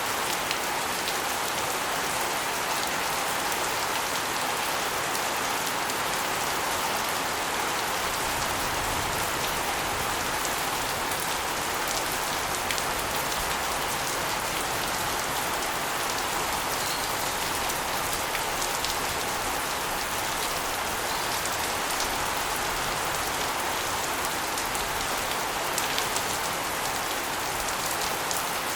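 Steady rain, with water spilling off an asbestos roof and splashing onto a concrete floor and against walls: a dense, even splashing with scattered drop ticks.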